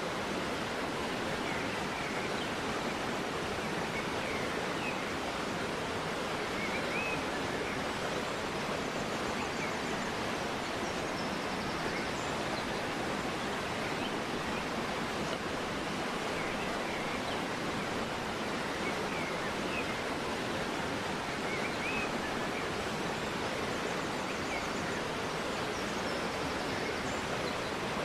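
River water flowing and rushing steadily, with faint, short bird chirps now and then.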